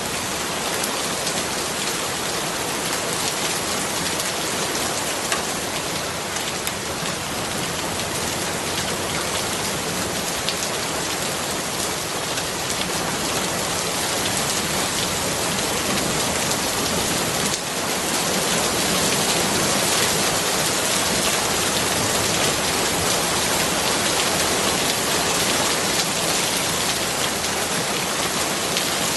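Steady rain falling, a dense, even hiss of many drops, growing a little louder a bit past halfway through.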